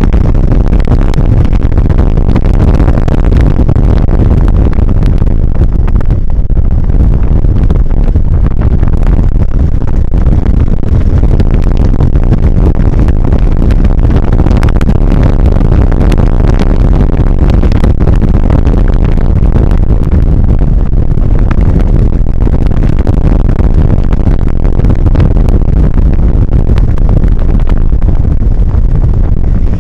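Trail-riding motorcycle running along a dirt track, heard from the bike-mounted camera as a loud, steady rumble of engine mixed with heavy wind and jolting noise on the microphone, with no distinct revs or pauses.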